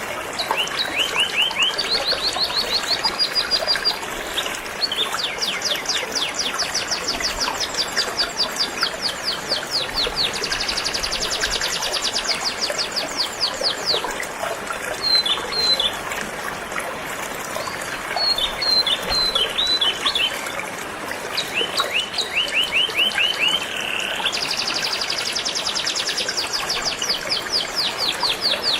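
Canary singing phrase after phrase of rapid, repeated-note trills, high-pitched and changing pitch from one trill to the next, over the steady rush of a flowing river.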